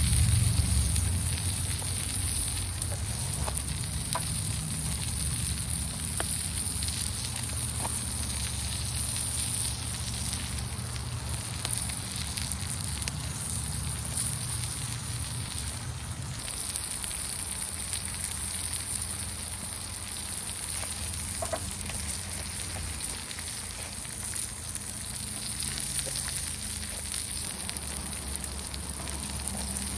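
Food sizzling steadily in a cast-iron pan over a wood campfire, with a few faint crackles and pops from the fire.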